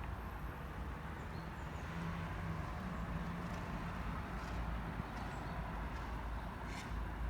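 Steady outdoor town background: a low rumble with hiss, like distant road traffic. A faint engine-like hum rises out of it for a couple of seconds in the middle.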